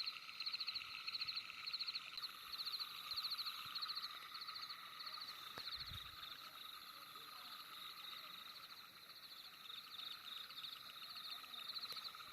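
Night chorus of calling frogs or insects: rhythmic chirps repeating about three times a second over a steady layer of calling.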